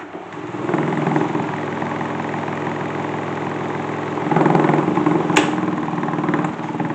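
Electric desk-fan motor, rigged to spin a salad-spinner basket as a toy washing machine, switched on and running with a steady hum. It swells briefly about four seconds in, and a single sharp click comes about five seconds in.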